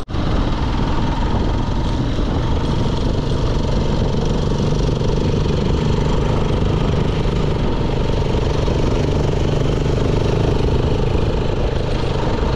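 Motorcycle engine running steadily while riding a dusty dirt road, under a continuous rush of wind and road noise.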